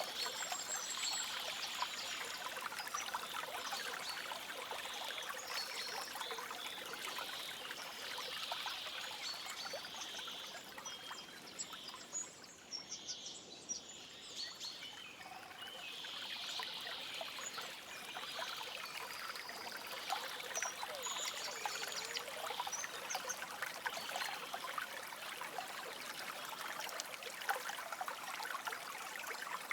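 A stream trickling and babbling steadily, with birds chirping now and then above it. The water thins out briefly for a couple of seconds midway.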